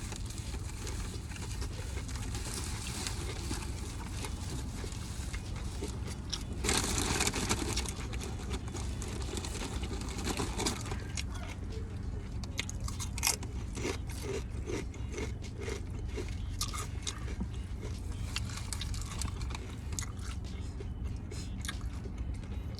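A person eating a veggie sub close to the microphone: chewing and biting, with crunches and many small mouth clicks, and a louder noisy stretch lasting about a second and a half about seven seconds in.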